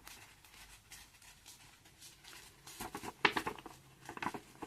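A folded paper airplane's paper rustling and crinkling as it is handled and pressed into shape, in short scratchy rustles about three seconds in and again just before the end.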